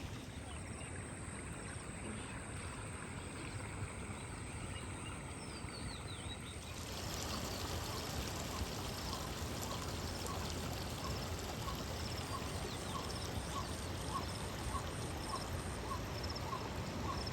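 Steady rushing water noise. About seven seconds in it gets a little louder, and a small high chirp starts repeating a little under twice a second.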